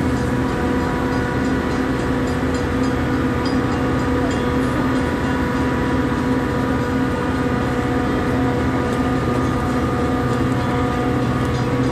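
Metra commuter train standing at the platform, running with a steady, even drone and hum that does not change.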